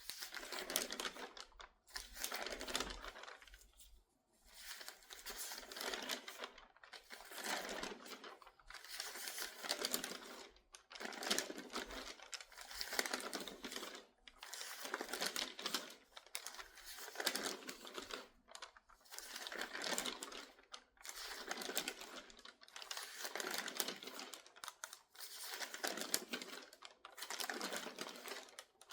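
Crinkly newspaper pages turned quickly one after another, a papery rustling crinkle with each turn, about one every second and a half to two seconds.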